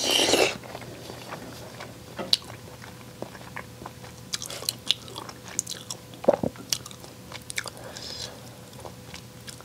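Close-miked chewing of a mouthful of rice mixed with soy-marinated crab (ganjang-gejang), scraped from the crab's toasted shell. A short loud mouth noise comes as the spoonful goes in, then steady chewing with small wet clicks and light crunches.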